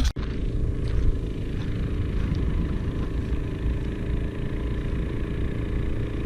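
An engine running steadily at an even idle-like speed, with a low rumble and no change in pitch.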